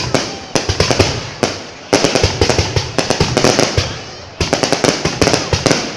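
Fireworks display going off: volleys of rapid sharp bangs and crackling. A new volley starts abruptly about every two seconds, with short lulls between.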